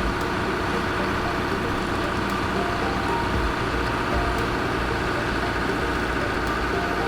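Heavy machinery engine running steadily, a dense, even rumble.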